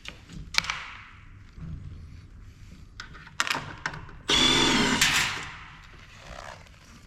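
Power drill/driver running briefly twice, a short burst then a longer whir about four seconds in, backing out screws during the teardown of an electronic monitor. Scattered clicks and knocks of parts and screws being handled come in between.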